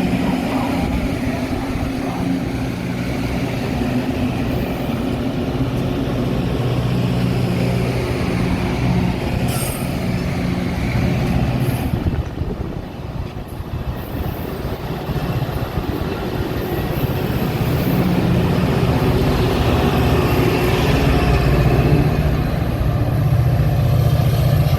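Metra commuter train running, a steady low drone with a brief dip in level about halfway and a rise toward the end.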